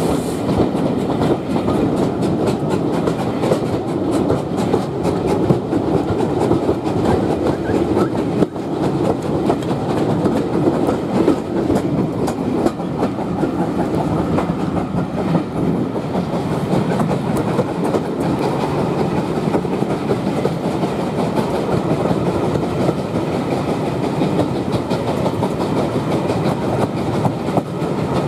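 Steam-hauled train of heritage railway coaches running along the line, a steady rumble with the wheels clicking irregularly over the track, heard through an open carriage window.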